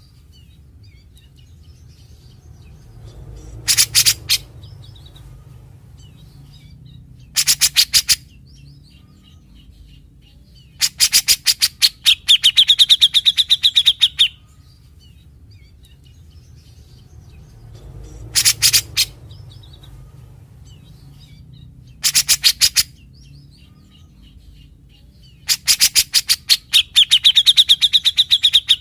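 Grey-cheeked bulbul (cucak jenggot) singing in short bursts of rapid, harsh rattling notes, six phrases in all. The two longest phrases end in a drawn-out high note.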